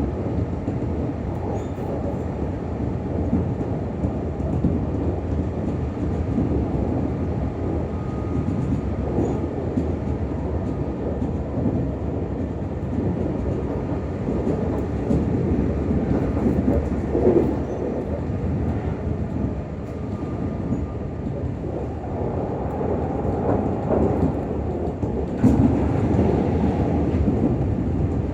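Meitetsu 6000 series commuter train heard from inside the car while running: a continuous low rumble of wheels on rail. It swells louder a few times, most of all in the last few seconds.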